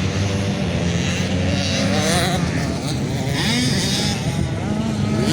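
Several motocross motorcycle engines revving up and down together, their pitches rising and falling as the bikes race; one engine screams louder and higher about three seconds in.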